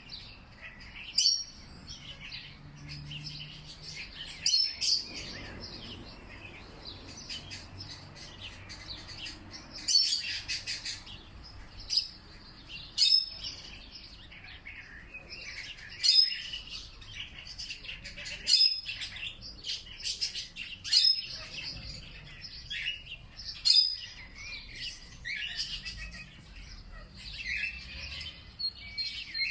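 Several small songbirds chirping and twittering in a chorus, with one loud, sharp call that comes back about every two to three seconds.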